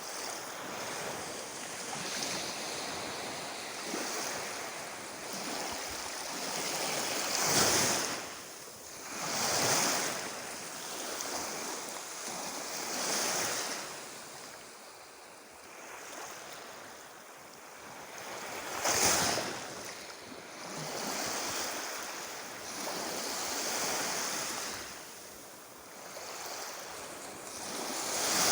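Sea surf: waves breaking and washing onto the shore one after another, each rising and falling over a few seconds, with the biggest breaks about a third of the way in and again about two-thirds in.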